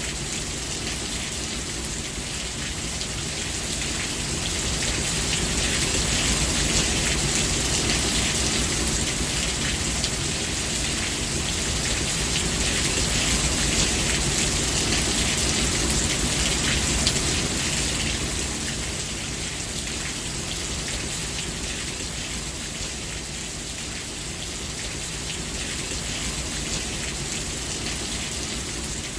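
Steady rain falling and pattering on surfaces, a dense hiss with fine crackle. It swells louder a few seconds in and eases back a little past halfway.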